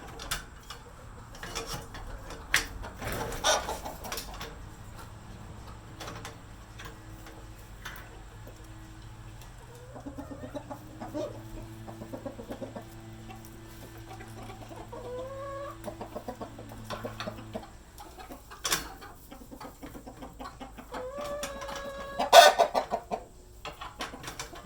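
Chickens clucking, with a louder rising squawk about three-quarters of the way through. Early on there are sharp clicks of metal parts being handled. A low steady hum stops about two-thirds of the way in.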